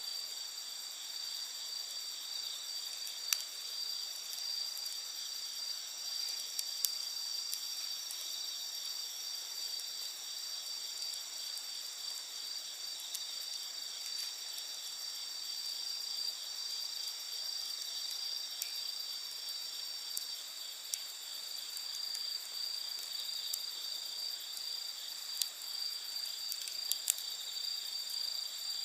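A chorus of night insects trilling steadily and high-pitched, with a few sharp pops from a crackling wood campfire.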